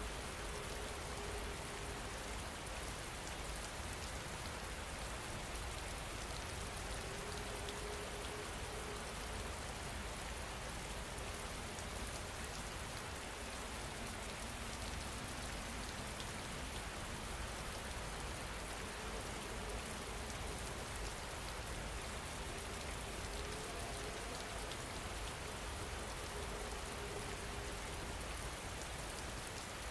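Steady rain falling, an even, unbroken hiss, with a faint low hum that comes and goes.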